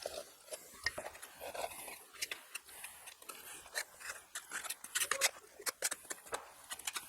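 Irregular light scrapes and clicks of spatulas spreading mastic on fireclay bricks and of the bricks being handled and set against one another.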